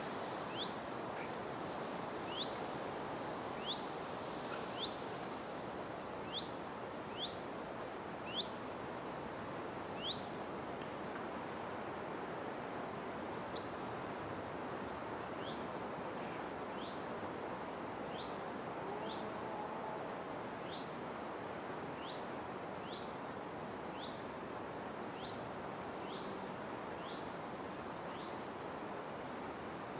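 A bird repeating a short, high, upward-sweeping call about once a second, with a pause of a few seconds around a third of the way in. The calls sit over a steady background of outdoor noise.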